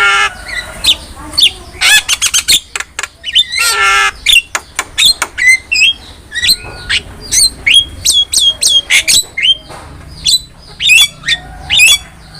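Javan myna (jalak kebo) in full song: a rapid, varied run of sharp whistles and chirps, broken by harsh rasping squawks just after the start and again about four seconds in.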